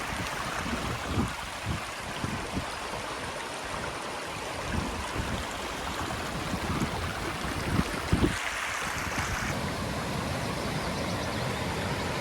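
Steady rush of water from Low Force, a waterfall on the River Tees, with irregular low thumps on the microphone.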